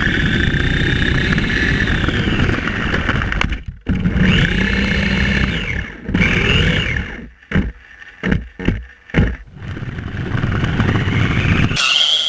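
Toy-grade RC racing car driven hard, its electric motor whining, the pitch rising and falling with the throttle. Around the middle come several short throttle blips in quick succession, and the sound stops abruptly in places.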